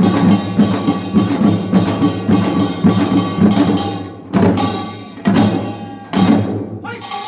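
Korean farmers' band (nongak) percussion playing a fast, dense rhythm of drum and metal strokes. About four seconds in it breaks into three heavy strokes roughly a second apart.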